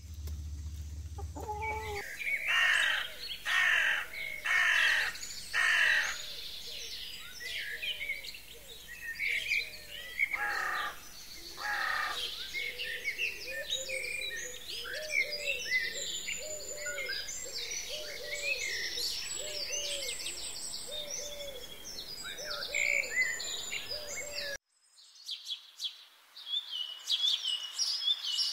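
Wild birds calling. First come four loud calls about a second apart. Then a busy chorus of chirps and trills runs over a low repeated note, and near the end it cuts to sharper, higher chirps.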